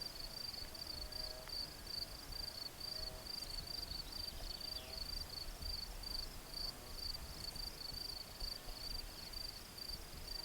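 Insects chirping in a steady high-pitched rhythm, about three chirps a second, over a faint low rumble.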